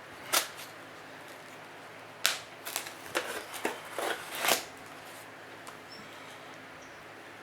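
Shipping package being opened by hand: a sharp click, then a run of short rustling and scraping noises.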